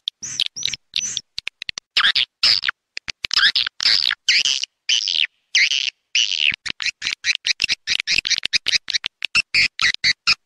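Edible-nest swiftlet call-sound (suara panggil) lure track: a rapid, high-pitched string of short chirps and twitters, several a second. It is cut with gaps of dead silence, as in an edited recording. Near the middle there is a pause of about half a second.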